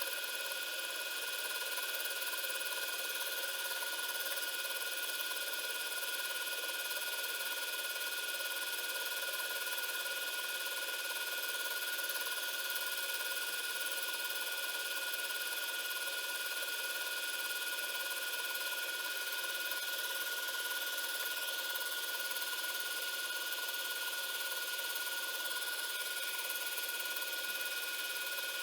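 CNC milling machine spindle running steadily with a constant high whine over a hiss, a compression wood end mill cutting MDF.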